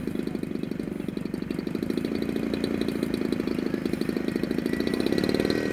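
Small gas engine of a radio-controlled plane, about 30cc, running steadily at a fast idle with a rapid, even pulsing. A faint high whine joins near the end.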